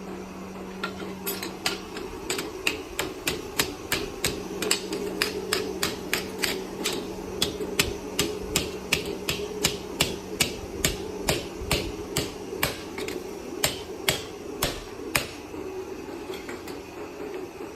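A hammer striking again and again, about two sharp blows a second, over a steady machine hum. The blows stop a couple of seconds before the end while the hum carries on.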